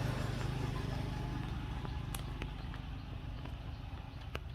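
A motor vehicle's engine running steadily with a low hum, slowly growing quieter, with a few faint clicks.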